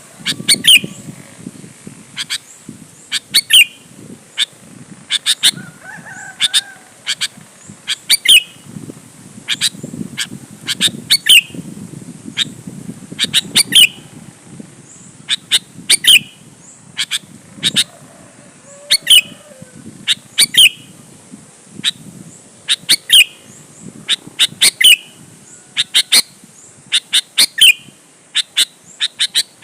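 Sooty-headed bulbul singing loud, sharp phrases of a few quick notes, repeated every second or two over a low background rumble.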